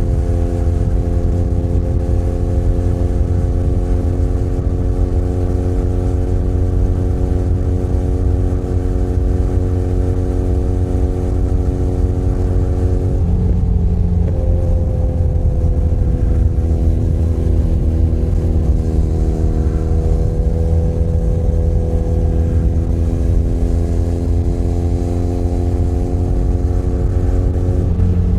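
Benelli Leoncino 500 Trail's parallel-twin engine running at a steady cruise, its pitch slowly sinking, with a brief gear change about halfway after which it pulls at a slightly higher pitch, and another shift near the end. A steady low wind rumble runs under the engine.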